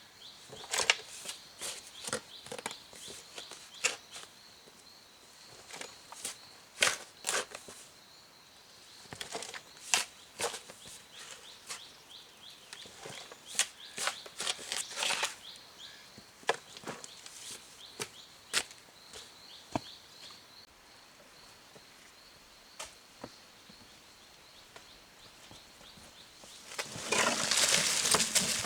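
Scattered sharp knocks and clicks, like wood or bamboo being handled and struck, with a faint steady high-pitched whine under the first two-thirds. A burst of loud rustling comes near the end.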